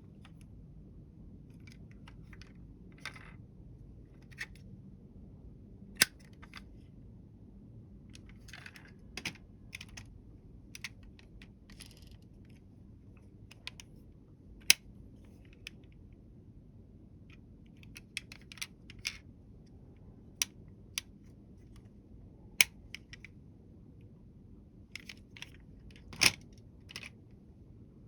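Small toy vehicles being handled: scattered light clicks and taps of hard pieces, with a handful of sharper clicks, over a low steady hum.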